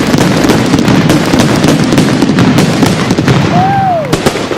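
Fireworks going off in a rapid, dense barrage of bangs and crackles that runs together without a break, then thins out near the end. A short whistle arches up and falls about three and a half seconds in.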